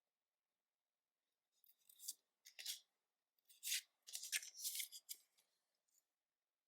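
Pokémon card booster packaging being handled and opened: a run of short crinkling, rustling bursts that starts about a second and a half in and stops about six seconds in, loudest near the middle.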